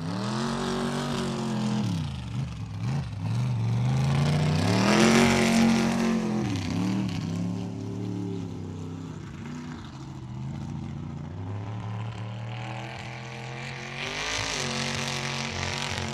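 Mud bog truck's engine revving hard, its pitch rising and falling several times as the throttle is worked, loudest about five seconds in. It settles to a steadier drone before revving up again near the end.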